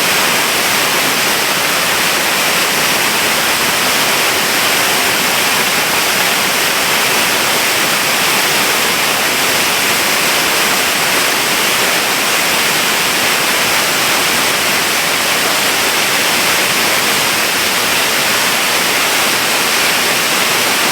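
Waterfall in spate heard from right at its foot: a loud, steady roar of heavy water falling and crashing, swollen after a lot of rain.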